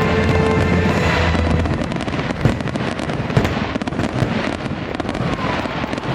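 Fireworks bursting and crackling in quick succession over a show's music soundtrack; the held music notes end about two seconds in, leaving a dense run of cracks and pops.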